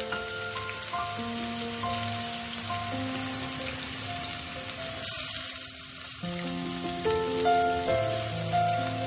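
Sliced onions sizzling in hot refined oil with dry chillies and cumin, just added to the pan, under background music of held notes.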